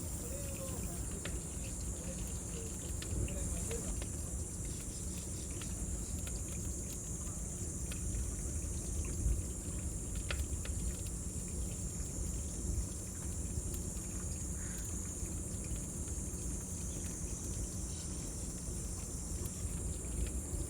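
Bonfire crackling with scattered small pops over a low, steady noise, while cicadas keep up a continuous high-pitched drone.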